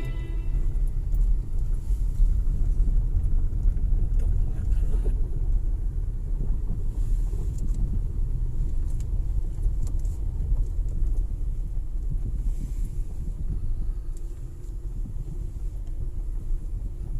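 A low, steady rumble with no clear pitch, slightly quieter near the end.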